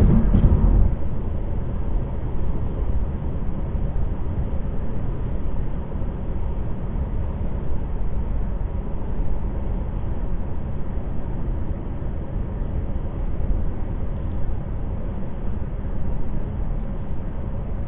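Steady road and engine noise inside a car cruising on the highway, a low even rumble.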